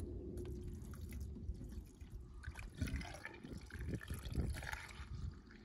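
Screen wash poured from a bottle into a car's windscreen washer fluid reservoir, the liquid running in uneven spurts from about halfway through.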